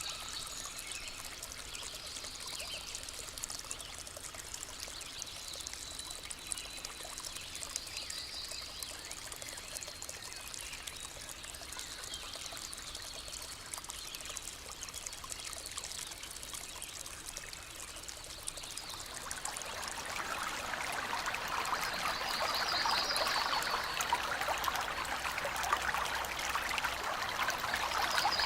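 Forest stream flowing and trickling over stones, growing louder and fuller about two-thirds of the way through. A few short, rapid high-pitched trills sound over the water now and then.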